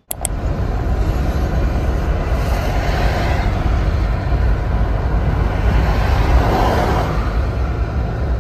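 Steady, loud rumble and running noise of a moving vehicle, with a heavy low-end drone and no distinct events, cutting in and out abruptly.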